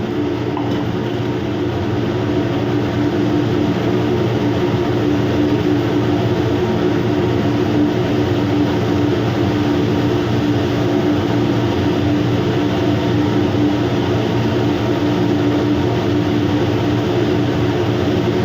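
Steady, unchanging machinery drone with a constant low hum: a ship's engines and ventilation running, heard in the galley.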